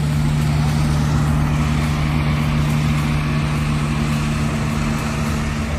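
A heavy truck engine running steadily at an unchanging pitch.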